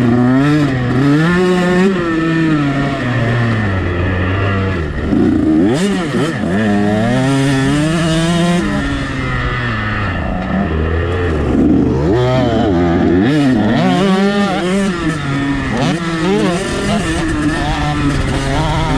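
KTM 125 SX two-stroke single-cylinder motocross engine being ridden hard, revving up and falling off again and again as the throttle is opened and shut.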